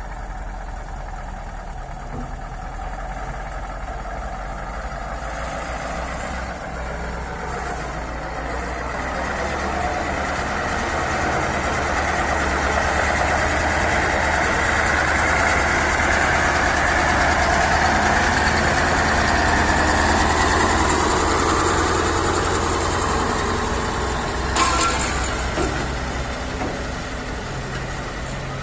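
V8 engine running at idle with a steady low rumble. It grows louder through the middle for about ten seconds, then settles back. There is a sharp click about three-quarters of the way through.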